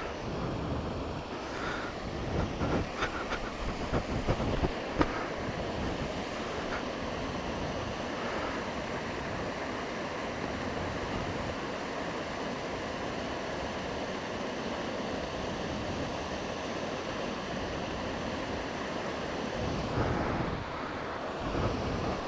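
Rushing water of a fast-running forest stream, a steady full hiss. A few short knocks sound in the first several seconds.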